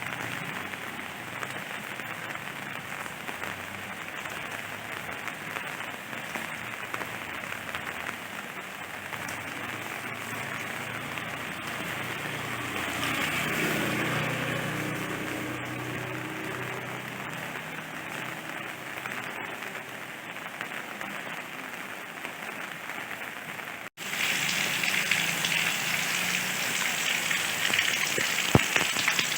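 Steady rain falling, swelling a little before the middle. The sound cuts out for an instant near the end and comes back as louder, heavier rain.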